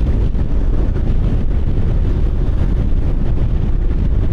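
Motorcycle riding at steady speed: heavy wind buffeting the microphone over the engine's steady drone.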